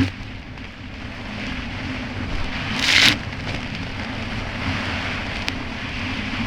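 Kawasaki Ultra 300X jet ski's supercharged four-cylinder engine running steadily under way over choppy water, with a constant hiss of water and wind. A short loud rush of spray comes about three seconds in.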